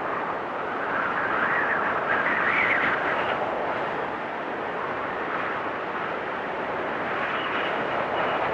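Wind storm: a steady rushing gale with a whistling gust that rises in pitch and swells about one to three seconds in, then eases back to the steady rush.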